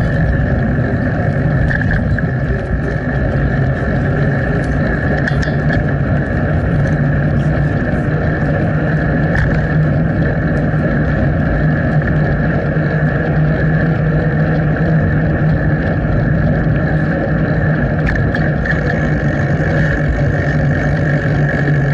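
Steady rush of riding noise picked up by a bike-mounted action camera's microphone while cycling: wind over the mic mixed with tyre and road rumble. It runs loud and even throughout, with a constant low drone and a higher hum.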